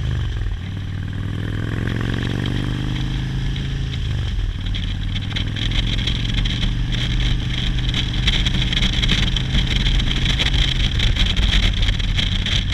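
Motorcycle engine accelerating through the gears: its pitch climbs, drops at a shift about four seconds in, then climbs again. A rushing noise grows louder as speed builds.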